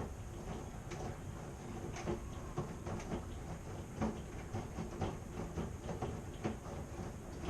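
Washing machine running: a steady low rumble with frequent irregular clacks and knocks as the load tumbles in the drum.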